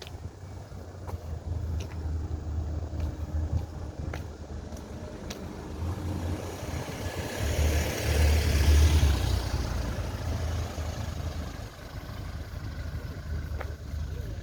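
Outdoor noise: a low, gusty rumble of wind on the microphone, with a vehicle passing that swells up and fades away in the middle.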